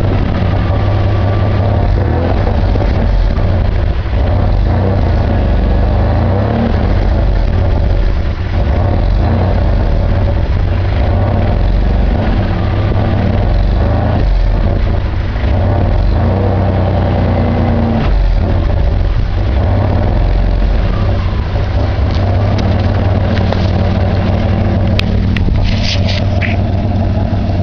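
Isuzu Rodeo V6 running through its new dual exhaust with a 2.5-inch Magnaflow muffler: a steady, deep exhaust drone with no rattle.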